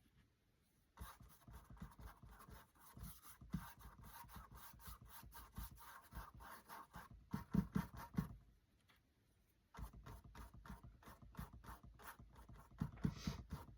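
Paintbrush loaded with black acrylic paint stroking across the painting surface: a faint, quick scratchy rubbing, with a short pause about nine seconds in.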